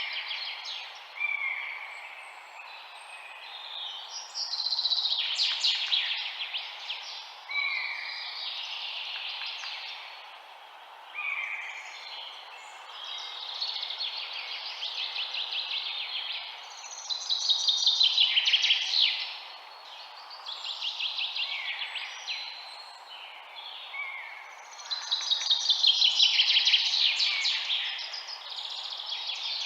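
Songbirds singing, overlapping phrases of rapid chirps and trills that swell and fade every few seconds, over a steady background hiss.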